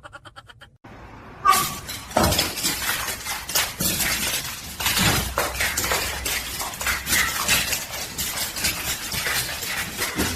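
A dense run of clattering knocks and clinks, hard objects being knocked about, starting about a second and a half in.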